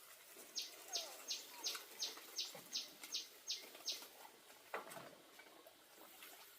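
A bird calling a quick series of about ten short, high chirps, each sweeping downward, roughly three a second. A single sharp knock follows near the end.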